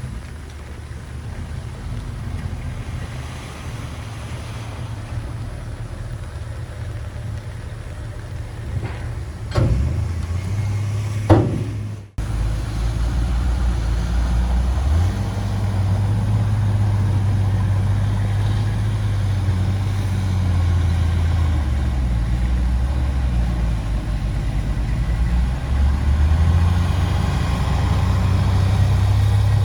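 Heavy diesel engines of earthmoving machinery running steadily. About twelve seconds in the sound cuts off abruptly and comes back louder, with the engine pitch stepping up and down as it works.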